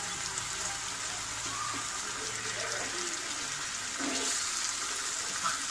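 Tomato purée, freshly added to onion masala frying in oil, sizzling and bubbling in a pan as it is stirred with a spatula: a steady hiss.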